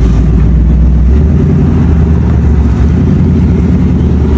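Ford Mustang V8 engine running loudly and steadily, its note stepping up slightly about a second in.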